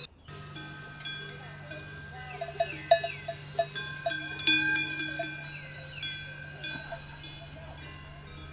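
Metal bells clanking and ringing, mixed with repeated short falling bird chirps.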